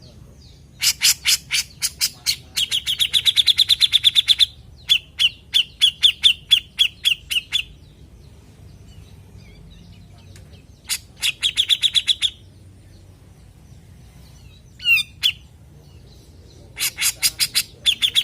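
Grey-cheeked bulbul (cucak jenggot) singing in three bouts, each a fast run of sharp, evenly spaced notes, about eight a second, that runs into a rapid high trill. A single short call comes in the pause before the last bout.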